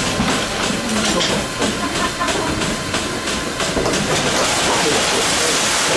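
Goat milking machine running: a steady vacuum hiss with a quick rhythm of pulsator clicks that fades into plain hiss after about four seconds.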